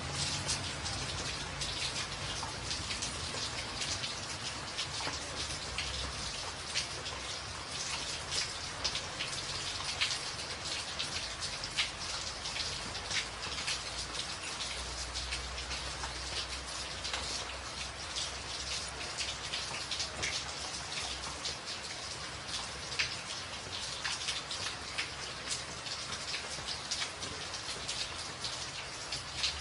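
Steady heavy rain drumming on a tin roof, thick with sharp individual drop strikes. A low rumble swells for a few seconds around the middle.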